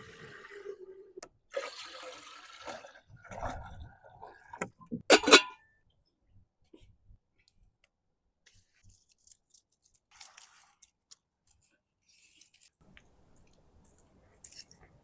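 Water pouring and splashing for a few seconds, then a few sharp knocks, the loudest about five seconds in, followed by faint scattered clicks of handling.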